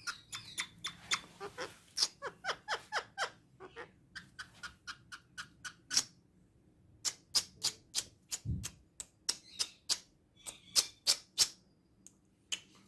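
Female Indian ringneck parakeet making a long string of short, sharp clicks and chirps in irregular runs, with a brief pause about six seconds in. A single low thump about eight and a half seconds in.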